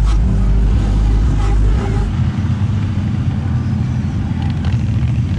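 Big lifted mud truck's engine running loud with a rough rumble. A deeper bass rumble under it drops away about two seconds in.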